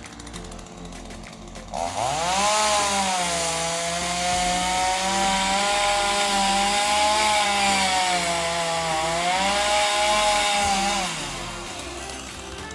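Two-stroke chainsaw revved up sharply about two seconds in, held at high revs for about nine seconds with the pitch wavering slightly, then let back down to idle.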